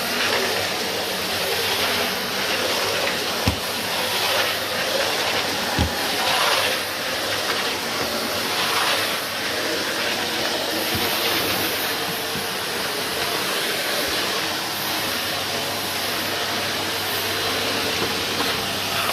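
Numatic Henry HVR160 vacuum cleaner running steadily, its motor humming under a rushing hiss of suction that rises and falls slightly as the nozzle is worked. There are two brief knocks a few seconds in.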